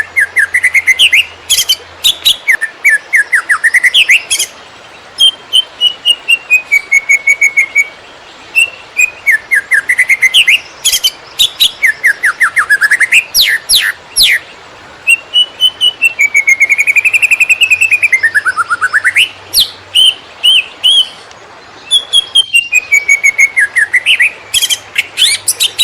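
Cucak ijo (green leafbird) singing a long, fast song of rapid chirps and rising and falling whistled glides, broken by short pauses every few seconds: the rapid-fire 'konslet' style that keepers use as masteran.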